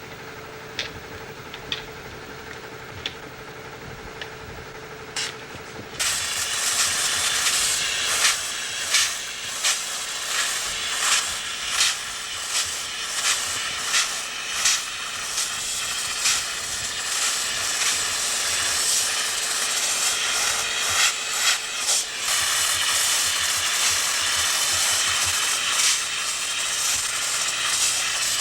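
A quiet steady hum with a few faint clicks, then about six seconds in a loud steady hiss starts, like air or spray under pressure. Through the middle it is broken by a run of sharp pops, roughly one or two a second, then it goes on as an even hiss.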